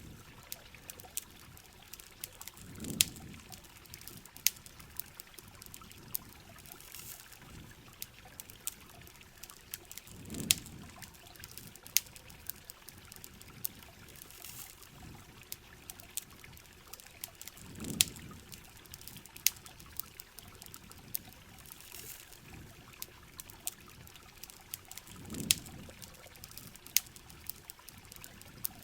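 Campfire crackling and popping over steady rain and running river water. A low, muffled swell comes about every seven and a half seconds, four times.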